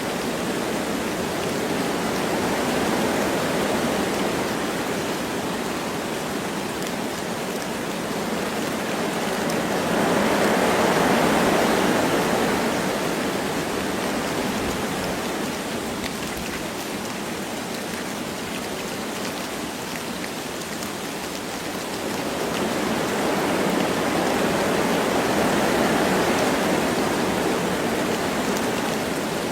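Wind blowing through forest trees with light rain falling, a steady rushing that swells in gusts about ten seconds in and again from about twenty-two seconds.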